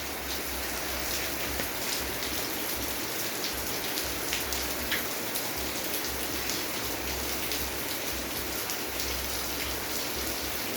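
Steady rain falling, an even hiss with many distinct drops pattering on a surface and a low rumble underneath.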